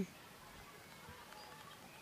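Quiet outdoor ambience with a few faint, brief bird chirps.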